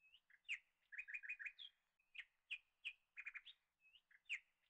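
Small bird chirping faintly: short high chirps and quick trills in a phrase that repeats about every two seconds.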